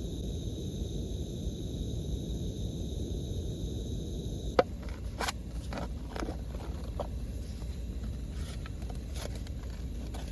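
Wind buffeting a lavvu tipi tent: a steady low rumble. About halfway through, a faint high whine stops with a sharp click, and scattered light taps follow.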